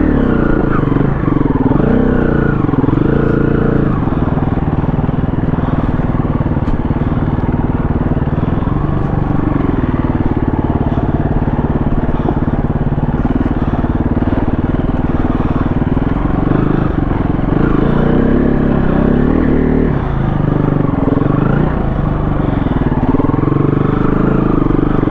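KTM 350 dirt bike's single-cylinder four-stroke engine running under way on the trail, its pitch rising and falling with the throttle near the start and again in the second half, steadier in between.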